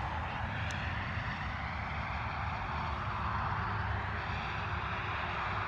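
Distant highway traffic: a steady, even rumble and hiss with no separate events.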